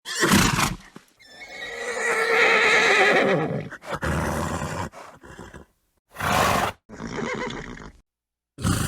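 Horse neighing and snorting: a short noisy snort, then a long whinny with a wavering pitch about a second in, trailing into lower calls. Two more short snorts come near the end.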